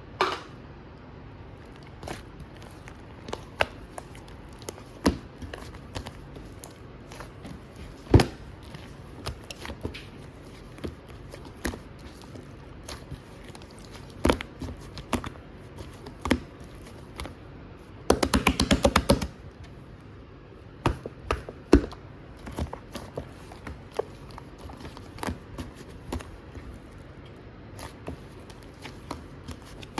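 Runny 'cheese fondue' slime being handled, giving scattered soft clicks and pops. A little past the middle comes a dense run of rapid crackling pops lasting about a second.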